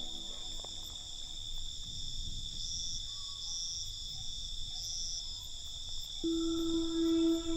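Crickets trilling steadily over a soft low background noise. About six seconds in, a held low musical tone with overtones comes in underneath.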